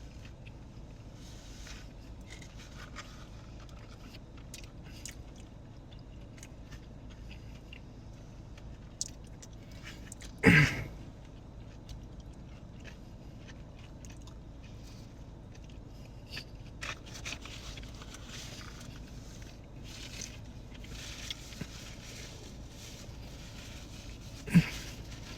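A person chewing and biting into food close to the microphone, with small crackling mouth and wrapper sounds. Two sharp, loud knocks stand out, about ten seconds in and again near the end.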